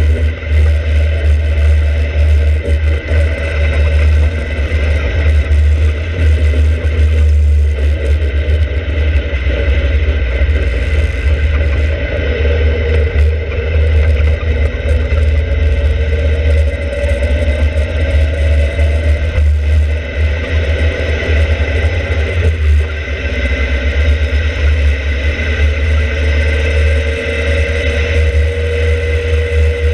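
Open-cockpit kit sports car's engine driven hard, its pitch climbing and falling again and again with acceleration, lifts and gear changes, under a heavy, constant wind rumble on the microphone.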